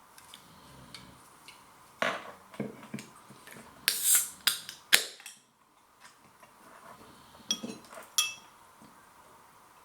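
Aluminium can of sparkling drink being handled and opened: clicks and knocks, then a short hiss of escaping gas about four seconds in, followed by a sharp click and, a few seconds later, two more taps.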